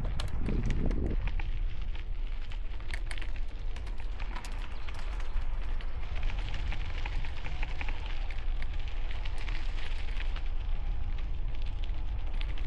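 Wind buffeting a helmet-mounted camera microphone as a bicycle rides into a strong wind, a heavy steady rumble, with bicycle tyres crackling over gravel.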